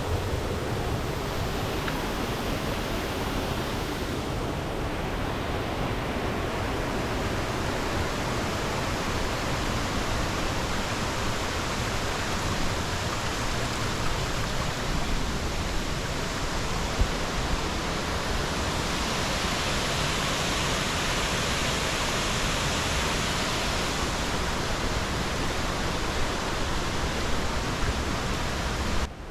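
Falling water of a waterfall rushing steadily, an even unbroken noise.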